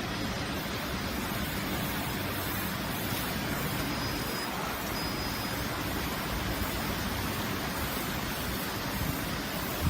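DY-W360 automatic car wash machine running, a steady, even rushing noise with a faint low hum underneath.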